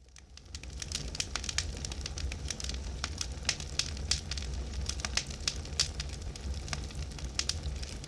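Wood campfire burning, with irregular sharp crackles and pops over a low steady rumble of the flames; it fades in over the first second.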